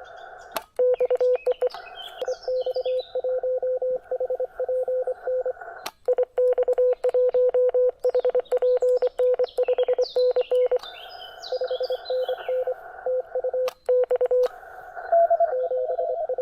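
Morse code (CW) from an amateur radio transceiver: a single steady beep keyed rapidly on and off in dots and dashes over band hiss, with a second signal at a slightly higher pitch starting near the end. Birds chirp in between.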